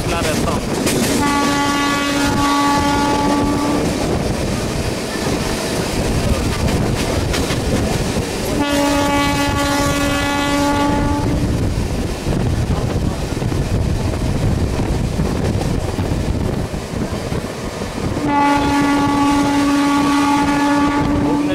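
Train running on the rails with steady wheel and track noise, and a train horn sounding three times, each blast about three seconds long: one about a second in, one near the middle and one near the end.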